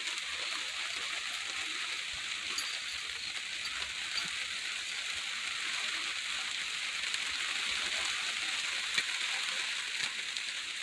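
Rain falling steadily, an even hiss with a few sharp ticks of single drops.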